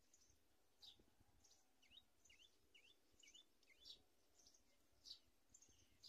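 Faint bird calls: scattered short high chirps, with a run of five quick notes that dip and rise in pitch around the middle.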